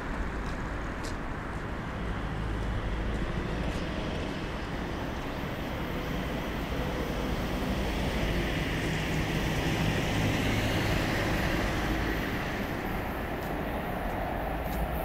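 An EF81 electric locomotive hauling the E26 Cassiopeia sleeper coaches approaching on curved track: a steady rumble that builds gradually, loudest about two-thirds of the way in.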